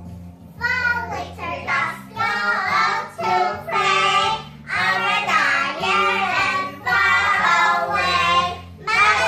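A child singing a song in phrases over a simple instrumental backing with steady low notes.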